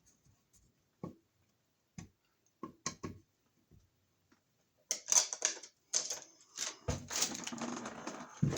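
A few separate clicks, then from about five seconds in a busier clatter of clicks and scraping: a screwdriver and a receptacle's metal mounting hardware being worked while the outlet is fixed into its electrical box.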